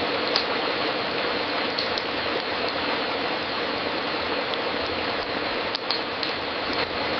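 Fireplace crackling: a steady hiss of burning wood with a few sharp pops scattered through.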